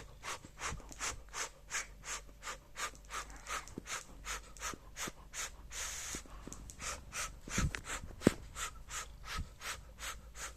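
A cat chewing a piece of sausage, wet smacking chews at a steady rate of about four a second. A short rush of noise comes about six seconds in and a single sharp knock about eight seconds in.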